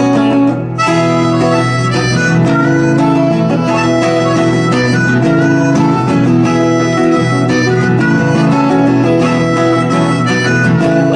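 Instrumental break of a folk song: a harmonica plays a melody over acoustic guitar.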